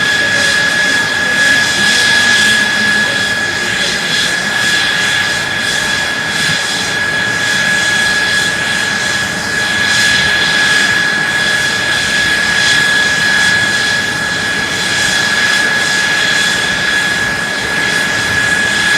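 F-2 fighter's F110 turbofan jet engine running steadily in a ground run: a steady high whine over an even rushing noise.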